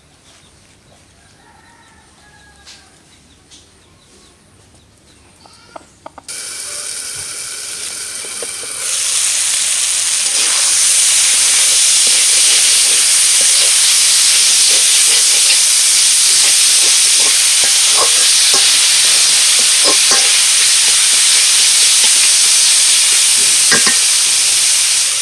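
Chopped Malabar spinach (pui shak) frying in hot oil in an aluminium karahi: a steady sizzle with the scrape of a metal spatula stirring it. The sizzle starts suddenly after a quiet stretch about six seconds in and gets louder about three seconds later.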